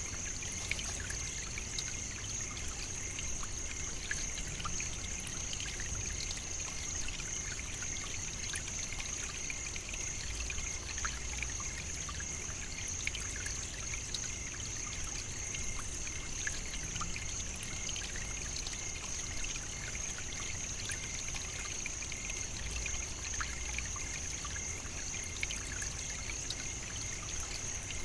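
African savannah nature ambience: a steady, high-pitched drone over an even trickling hiss with many small scattered ticks, unchanging throughout.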